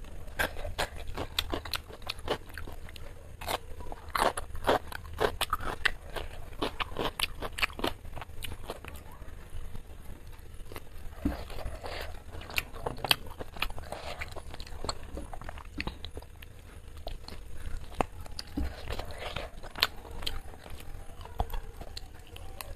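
Close-up eating sounds: crisp, rapid crunching as a raw cucumber slice is bitten and chewed, thinning after about eight seconds into softer chewing and mouth sounds while eating chicken by hand.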